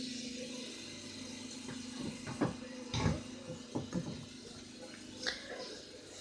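A handful of light clicks and knocks from a toy train being handled and pulled apart, spaced irregularly over a couple of seconds, over a faint steady hum and hiss.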